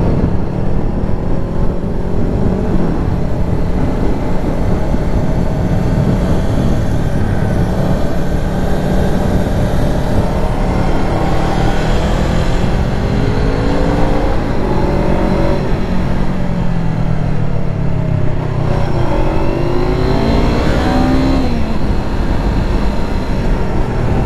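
Honda CBR500R's parallel-twin engine, on its stock exhaust, pulling as the bike accelerates: the engine note climbs and drops back at each upshift, twice in the second half. A heavy rush of wind noise runs underneath.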